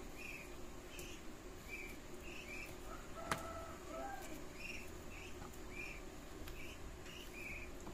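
A small bird chirping repeatedly, short high chirps about every half second to second, with a single sharp click a little over three seconds in.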